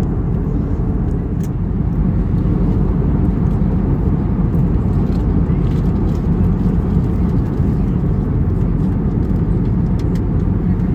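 Steady low rumble of cabin noise inside an Airbus A321neo in flight, from engines and airflow, with a few faint clicks.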